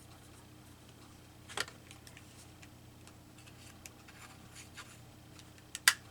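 A stapler pressed shut near the end with a sharp click, driving a staple into paper, after a few faint handling clicks. The stapler is one its user takes to be nearly out of staples.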